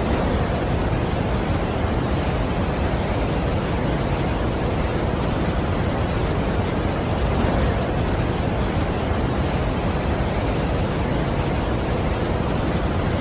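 Steady, unbroken rush of a large waterfall's falling water, an even noise across all pitches with no change.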